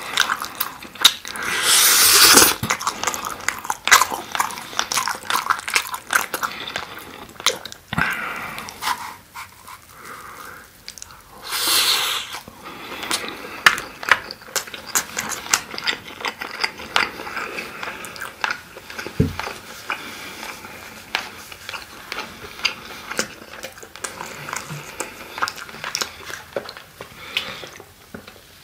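Close-miked biting and chewing of sauce-glazed grilled chicken skewers, with many short wet clicks and smacks and louder stretches about two and twelve seconds in.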